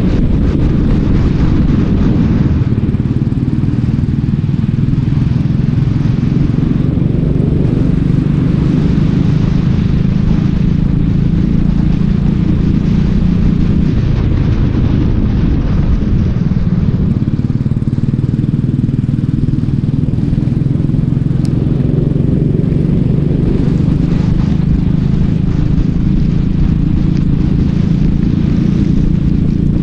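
Racing kart engine running loud and steady at speed. Its note drops for a few seconds about halfway through, then climbs again, as when lifting off and accelerating through a corner.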